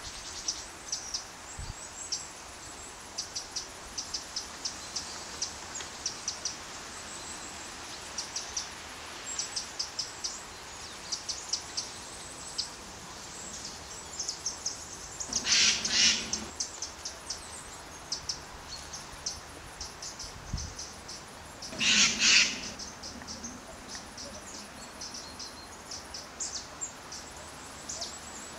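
Woodland birds chirping with many short, high calls, and two louder harsh calls about six seconds apart past the middle.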